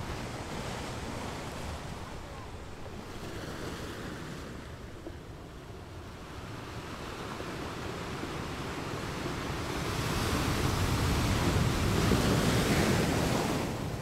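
Sea waves washing on a shore: a steady rush of surf that builds into a louder wave over the last few seconds, then drops back near the end.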